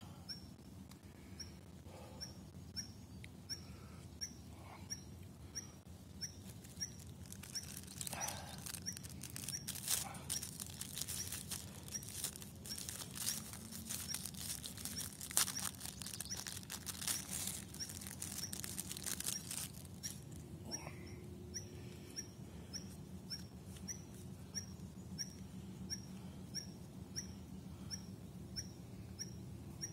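A small bird repeating one short high note about twice a second throughout. From about 8 to 20 seconds in, the crinkling rustle of a paper wrapper being handled close by.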